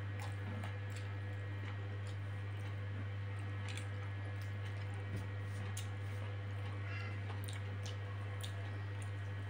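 A steady low hum under faint, scattered small clicks: a person chewing with small mouth clicks while picking leftover grains of rice off a paper table cover with the fingers.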